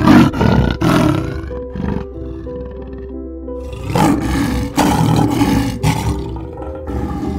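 A big cat giving loud, rough calls in two groups of bursts, one at the start and another about four seconds in, over soft background music with held notes.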